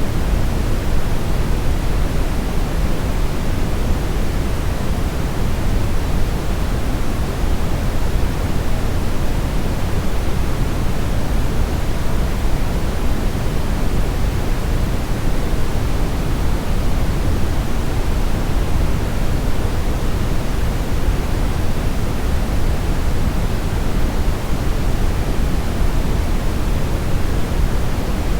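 Brown noise: a steady, even rushing hiss with its weight in the deep bass, unchanging throughout.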